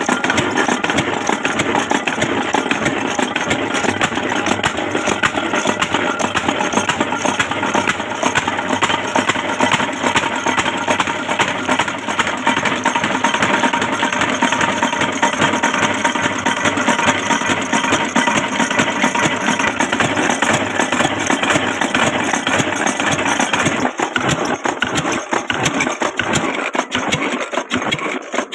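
Antique stationary diesel engine powering a tube-well pump, running steadily. Near the end its deep low part drops away and the sound turns more uneven.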